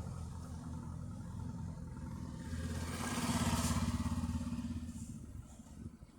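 Tractor engine running, growing louder as it passes close about three seconds in, then fading away.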